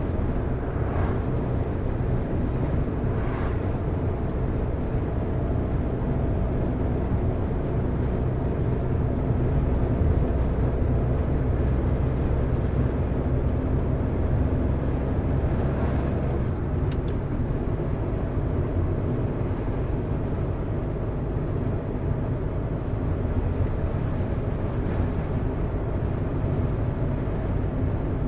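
Car driving: a steady engine hum with road and tyre noise. The deepest part of the rumble eases off about sixteen seconds in, as the engine load or gear changes.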